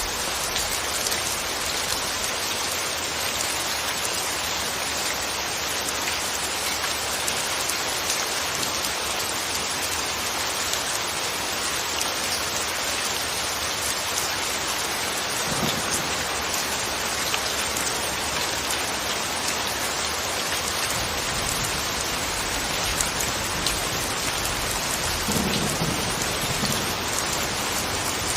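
Steady rain falling on a surface, an even hiss of many drops, with a brief low rumble about halfway through and another near the end.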